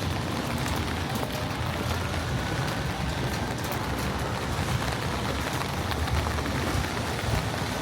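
Rain falling: a steady hiss with scattered drop ticks over a low, unsteady rumble.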